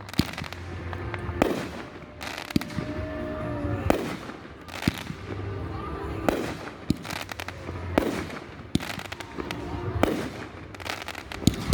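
Fireworks display with shells bursting in a quick, uneven series of sharp bangs, about one a second.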